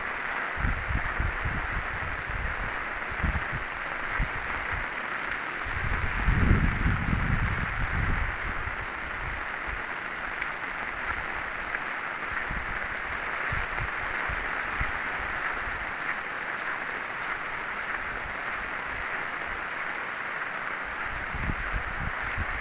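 Heavy rain falling steadily in a downpour, with irregular low rumbles that are strongest about six to eight seconds in.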